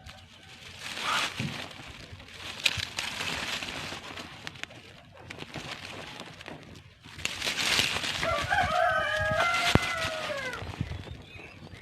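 A rooster crowing once, about eight seconds in: one long call of roughly two and a half seconds that drops in pitch at the end.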